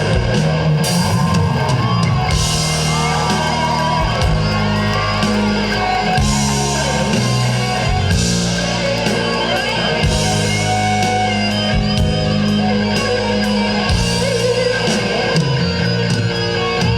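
Live rock band playing an instrumental break of a rock ballad: a lead electric guitar melody over drums and bass.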